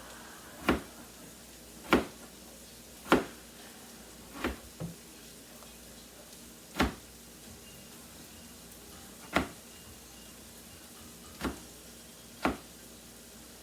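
A kitchen knife striking a cutting board in slow, uneven cuts, most likely through potatoes: nine sharp knocks spaced about one to two and a half seconds apart, two of them close together about four and a half seconds in.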